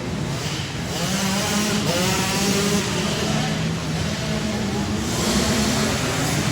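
Several 65cc two-stroke youth dirt bikes racing together, their engines revving up and down with overlapping rising and falling whines.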